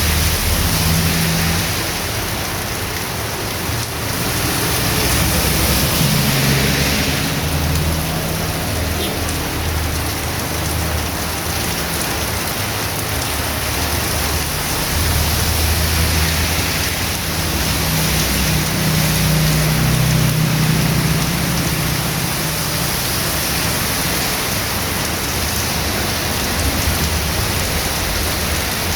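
Heavy rain pouring steadily onto the street and nearby surfaces, a dense even hiss. A low rumble swells and fades under the rain a few times.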